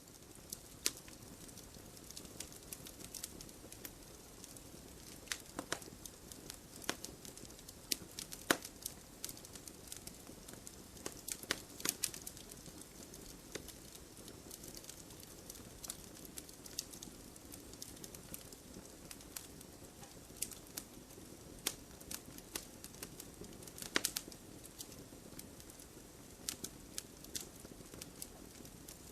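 Campfire burning: burning wood crackling with irregular sharp pops and snaps over a steady low noise of the flames.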